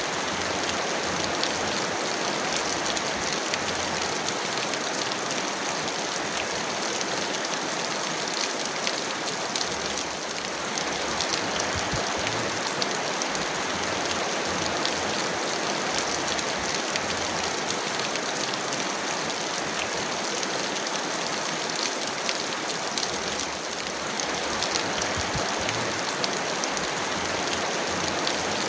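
Heavy rain falling steadily: a dense, even hiss of rain with many small drop ticks, easing very slightly for a moment twice.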